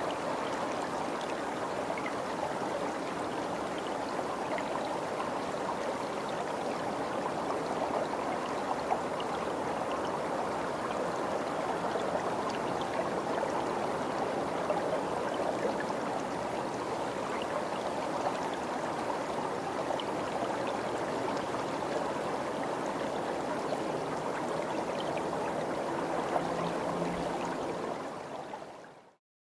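Steady rush of flowing stream water, fading out near the end.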